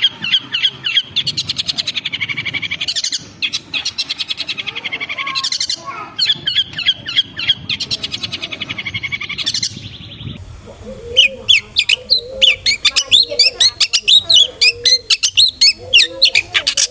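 Long-tailed shrike (cendet) calling: fast ticking chatter trills. About ten seconds in, the sound changes abruptly to a run of quick, sharp chirps.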